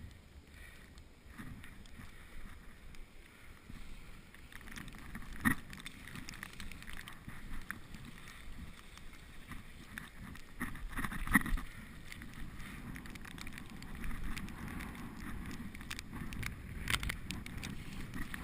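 Bicycle ridden over snowy streets: steady rolling noise with scattered knocks and rattles, the sharpest about five, eleven and seventeen seconds in.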